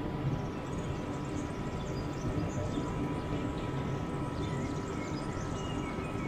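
Steady rumble of a stationary SNCF liO regional train running at a standstill beside the platform, with a thin steady whine over it and small birds chirping.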